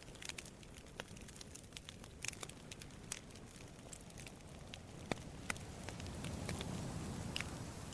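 Wood campfire crackling and popping in irregular sharp snaps, with one loud pop about five seconds in. Under it is a low rush of surf that swells near the end.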